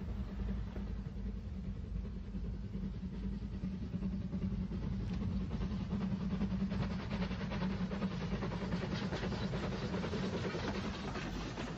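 Railway train running: a steady low rumble with a rapid clatter that grows louder from about halfway.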